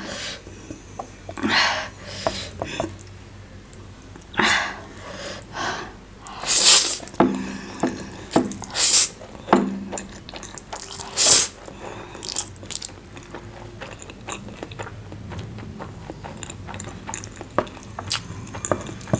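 Close-miked eating: wet chewing and slurping in irregular bursts, with a few short pauses between mouthfuls.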